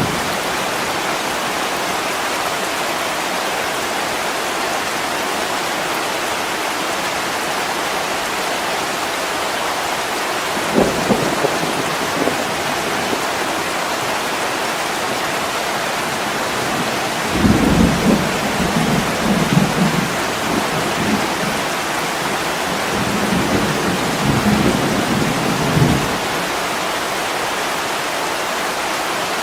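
Heavy rain pouring steadily on an attic window, with low rumbles of thunder: a short one about a third of the way in, then longer rolls of rumbling through the second half.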